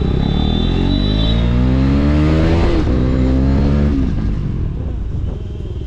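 KTM Duke 250's single-cylinder engine accelerating under the rider: the revs climb for about two and a half seconds, dip briefly at an upshift near three seconds and hold, then drop off as the throttle closes around four seconds in.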